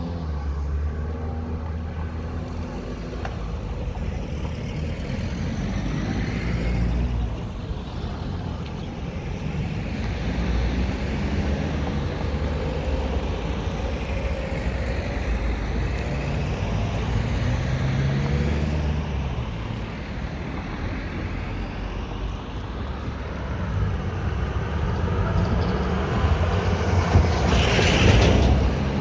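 City street traffic: cars and trucks passing by with steady engine rumble and tyre noise, swelling and fading as each goes past. Near the end it grows louder, peaking as a vehicle passes close.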